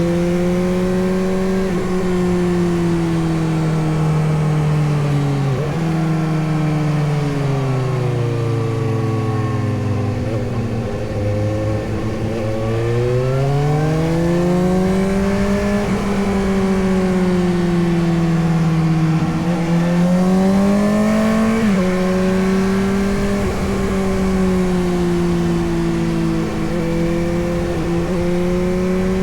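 Suzuki GSX-S750's inline-four engine running under way. Its note holds steady, sinks for several seconds as the bike slows, then climbs again as it accelerates, with sudden drops in pitch about six seconds in and again near the end.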